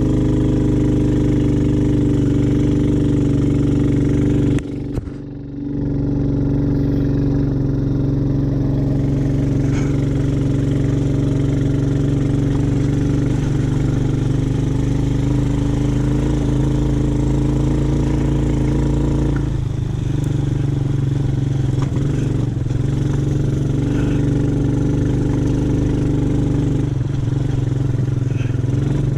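ATV engine running at a steady speed, with a short drop in loudness about five seconds in.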